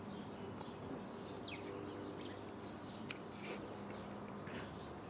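Small birds chirping: short, falling high calls every second or so, with a couple of sharp ticks, over a low steady hum.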